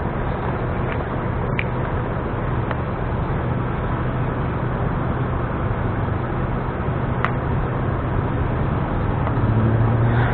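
Steady road traffic noise with a constant low hum, broken by a few faint clicks.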